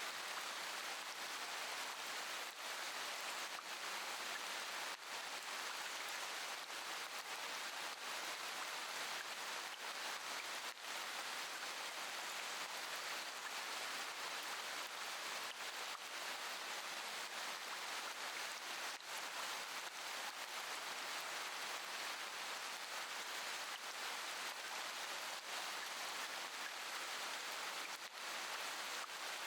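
Steady rainfall, an even hiss of rain with faint scattered drip ticks.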